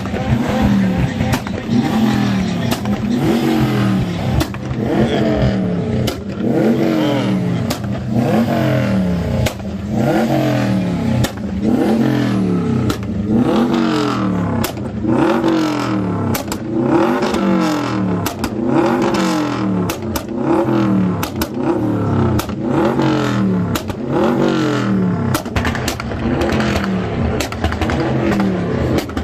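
Car engine with a loud aftermarket exhaust revved over and over, the note rising and falling about once a second, with many sharp crackles.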